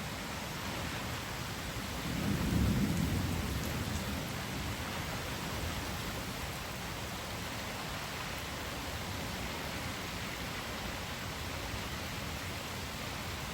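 Steady rain, with a low roll of thunder rising about two seconds in and fading away over the next couple of seconds.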